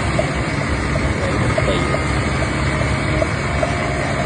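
Steady mechanical running noise, like a motor running, with no pauses or changes in level.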